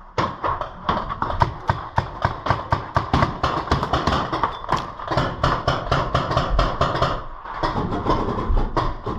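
Paintball marker firing rapidly, about four to five shots a second, with a brief pause near the end before the shooting resumes.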